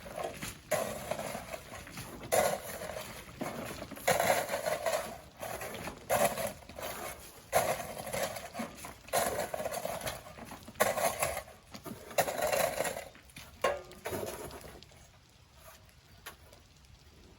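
Sand being shovelled and thrown in a steady rhythm, one scrape-and-toss about every one and a half to two seconds. The shovelling stops about three-quarters of the way through.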